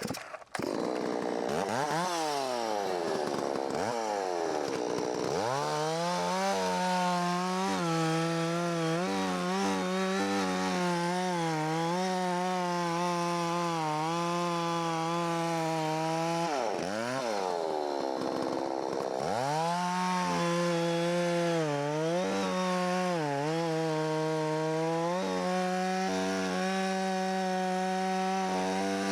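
Holzfforma G660 (Stihl MS660 clone) two-stroke chainsaw with a 20-inch bar, revved up and down a few times, then held at steady high revs while cutting into a log. Its pitch drops and climbs back once about two-thirds of the way through.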